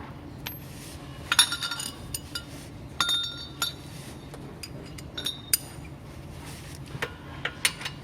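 Metal hand tools and parts clinking: sockets, wrenches and bolts knocking together in a series of short, ringing metallic clinks, loudest about a second and a half in and at three seconds. A steady low hum runs beneath.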